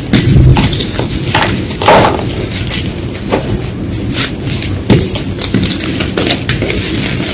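Gym chalk being crunched and crushed close to the microphone: a steady run of irregular crackles and gritty snaps, with a few sharper, louder crunches standing out.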